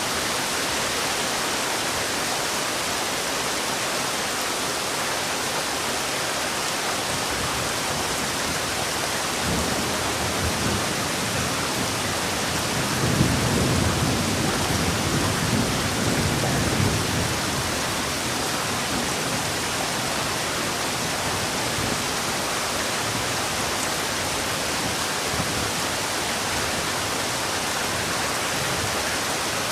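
Heavy rain falling steadily, with a low rumble of thunder swelling up about a third of the way in and lasting several seconds before fading back into the rain.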